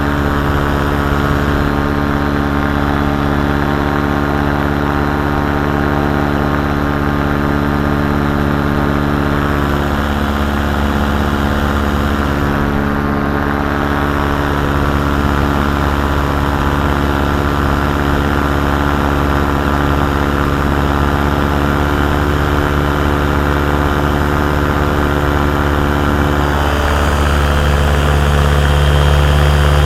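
Paramotor engine and propeller running steadily in flight, a continuous drone at a fixed pitch that gets a little louder near the end.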